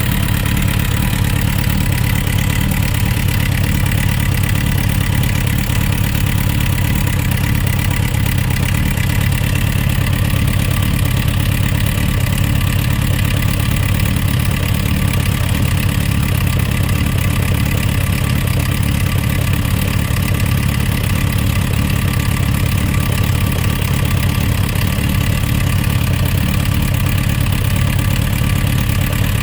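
Suzuki RF900's inline-four engine idling steadily, with the knocking sound that the owner presents as an engine problem.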